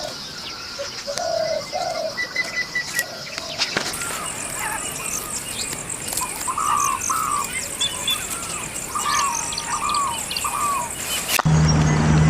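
Birds calling in short paired chirps over a steady high insect-like buzz. About a second before the end a low motor hum starts abruptly and becomes the loudest sound.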